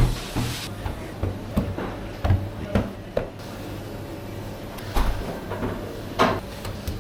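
Kitchen work clatter: a string of separate knocks and clunks, the loudest right at the start and again about five and six seconds in, over a steady low hum.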